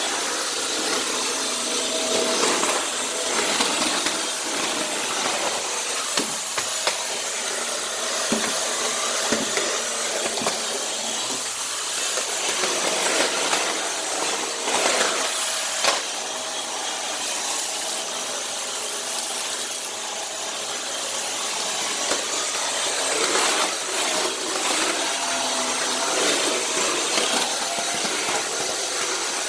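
Dyson Cinetic canister vacuum running steadily as its floor head is pushed across a tile floor, with a thin high motor whine over a steady rushing of air. Short knocks come now and then as the head moves over the tile.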